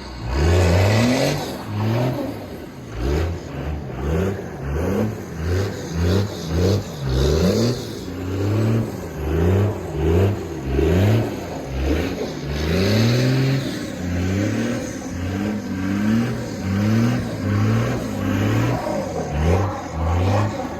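5.9 Cummins inline-six turbo diesel being revved in quick repeated blips, the engine note climbing and dropping about once a second.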